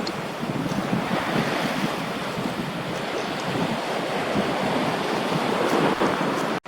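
Surf washing ashore with wind buffeting the microphone: a steady rushing that builds slightly and then cuts off abruptly near the end.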